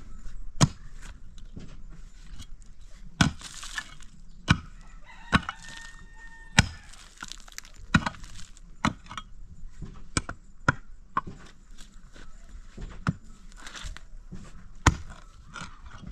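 An irregular series of sharp knocks, roughly one a second, from blows of a tool on a hard material. A chicken calls briefly about six seconds in.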